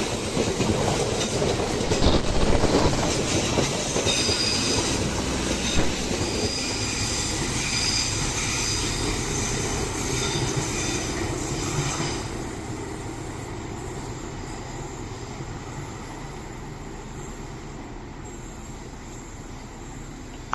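Passenger train running past on the rails, its wheels squealing with steady high tones, loudest in the first twelve seconds and then fading away as it recedes.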